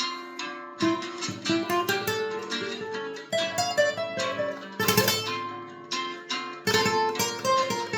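Solo Spanish guitar improvising in flamenco style, mixing single plucked notes with strummed chords; a strong strummed chord comes about five seconds in.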